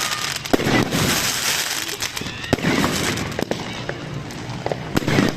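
Fireworks going off in quick succession: repeated sharp bangs over continuous crackling, the loudest about half a second in, at about two and a half seconds and near the end.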